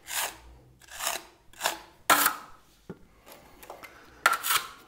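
Steel spatula scraping wet travertine plaster off a wall in about five short strokes, taking away the excess.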